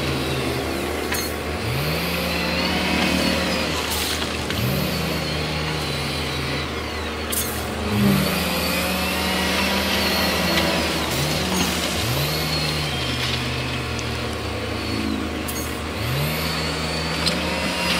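Heavy earthmoving machine's diesel engine working under load. It revs up and holds over and over, every two to three seconds, with a few sharp knocks in between.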